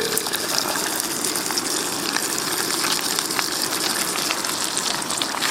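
River water rushing steadily, an even hiss with a few faint clicks over it.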